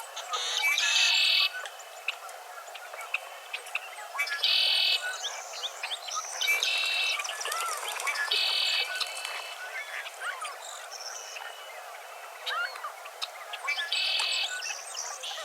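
Sunrise chorus of birds: one bird repeats a short rapid trill five times, a few seconds apart, over many scattered chirps and sweeping whistles from other birds.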